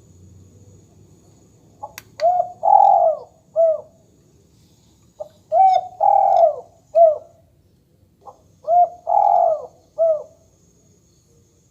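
Dove cooing call played back through an electronic bird caller speaker: a three-note phrase, short, longer, short, repeated three times about every three seconds, over a faint steady high whine.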